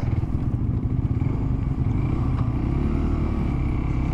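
Motorcycle engine running steadily, its pitch rising a little and easing back about two to three seconds in.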